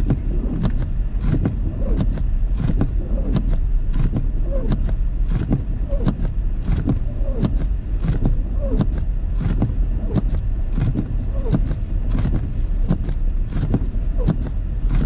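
Inside a car driving through deep snow: the steady low rumble of the engine and tyres, with a regular beat of sharp knocks or ticks about one and a half a second.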